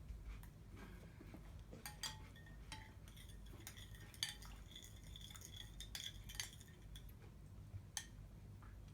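Faint, scattered clinks of cutlery against dishes at a breakfast table, a dozen or so short, sharp taps, some of them ringing briefly.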